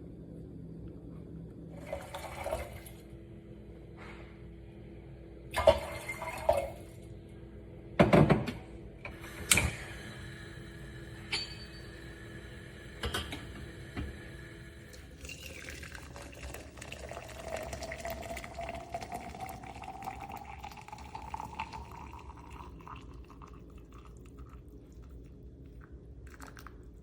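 A few knocks and clatters of things being handled, then water running into a container, its pitch slowly rising as the container fills.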